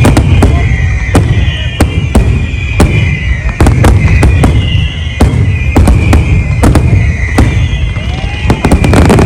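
A large fireworks display: rapid, irregular bangs and crackles from bursting shells over a continuous deep rumble.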